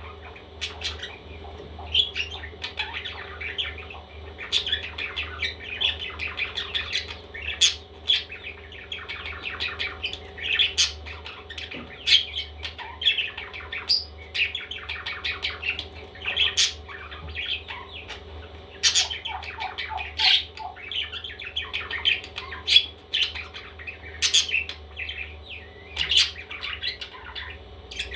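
Baby parrots chirping and squawking in frequent short calls, with a steady low hum underneath.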